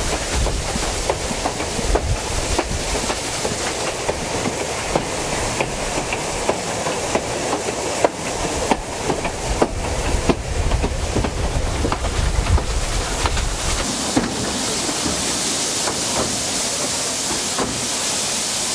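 Narrow gauge railway carriage running along, its wheels rumbling and clicking over the rail joints. About fourteen seconds in the clicking stops and a steady hiss of escaping steam from the side-tank steam locomotive takes over.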